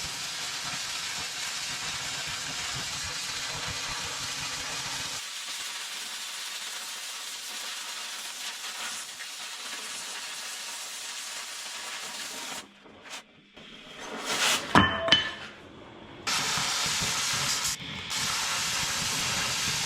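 Oxy-acetylene cutting torch with an acetylene cutting tip hissing steadily as it cuts through steel welds. About 13 s in the hiss stops, a few sharp metallic clinks ring out, and the hiss resumes near 16 s.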